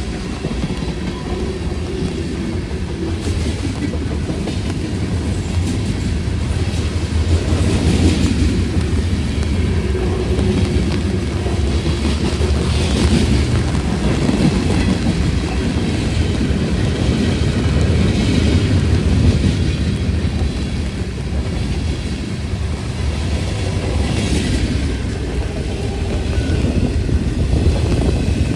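Freight train rolling past: a steady rumble of steel wheels on the rails, with an occasional clack every few seconds.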